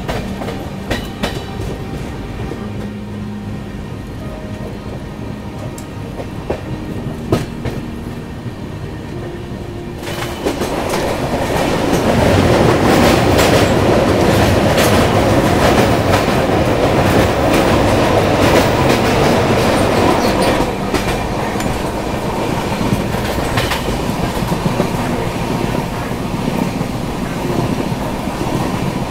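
Passenger train running at speed, heard from an open coach door: wheels clicking over rail joints. A rushing noise swells about ten seconds in and eases a little around twenty seconds.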